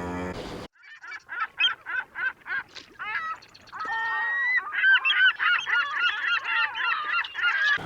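Geese honking: a quick run of repeated calls, about four a second, then a busier chorus of overlapping honks from several birds.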